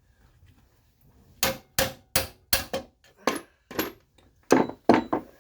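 A string of about ten hard hammer blows on metal, coming at an uneven pace a third to half a second apart after a short quiet start, the loudest near the end: hammering at seized front-suspension parts.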